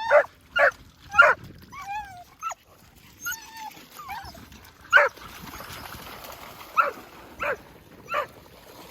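Dogs barking in short, separate barks, with high whines that bend up and down between the barks in the first half; the noise of dogs when they are excited.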